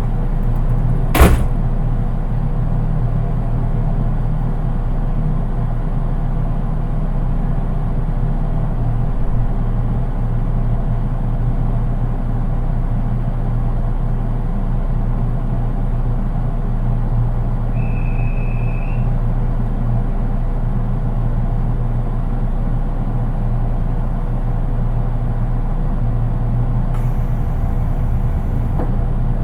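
Steady interior noise of a JR East 183 series electric train, a low even rumble and hum heard from its unpowered driving car, so without traction-motor sound. A single sharp click comes about a second in.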